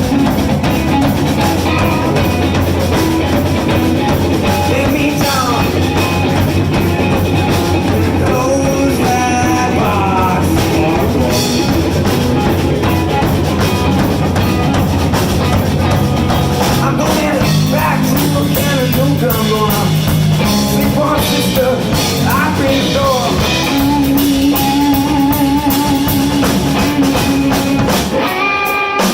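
A blues band playing live: electric guitar lines over bass and a drum kit.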